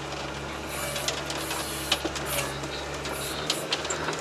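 Articulated wheeled all-terrain vehicle heard from inside its cab while driving over snow-covered swamp: a steady low engine drone with constant clicking and rattling from the cab over rough ground. The low drone shifts about three and a half seconds in.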